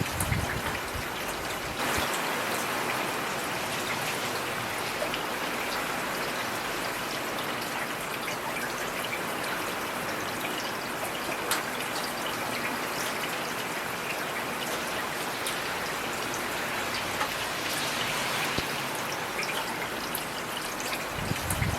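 Heavy rain falling steadily: a dense hiss with scattered sharper drop hits, growing a little louder about two seconds in. A brief low thump comes at the start and again near the end.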